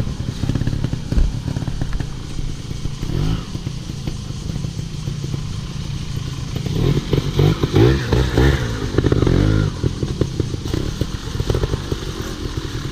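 Off-road motorcycle engine running at low revs with a rapid, uneven beat. From about seven seconds in it is revved up and down several times for a few seconds before settling back, while the bike is ridden over tree roots.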